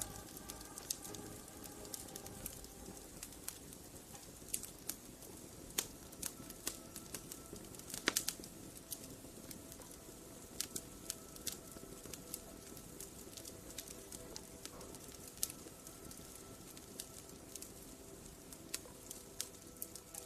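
Wood fire in a fireplace crackling: irregular sharp pops and snaps over a low hiss, with a louder cluster of snaps about eight seconds in. Soft sustained music tones sit underneath.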